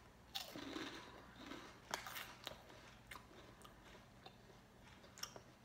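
A person chewing a crunchy puffed corn snack disc, with faint crisp crunches: a first bite about half a second in, a cluster of crunches around two seconds in, and one more near the end.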